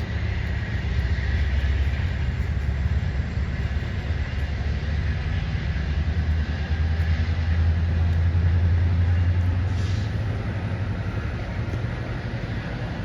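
Diesel train rumbling by with a steady, deep engine drone that swells slightly partway through and then eases off.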